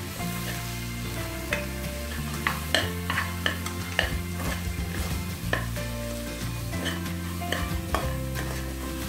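Sprouted green gram, black chickpeas and peanuts sizzling in hot oil and masala in an aluminium pressure cooker, with a metal ladle stirring them and clicking and scraping irregularly against the pot.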